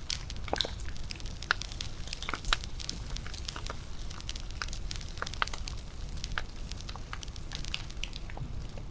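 Wood fire crackling: irregular sharp pops and snaps, several a second, over a steady low rumble, with one louder pop about two and a half seconds in.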